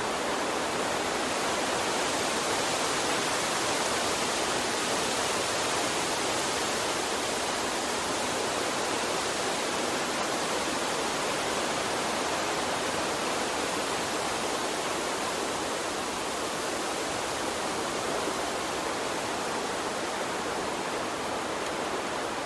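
Steady rushing of a water stream, an even wash of flowing water with no breaks or distinct splashes.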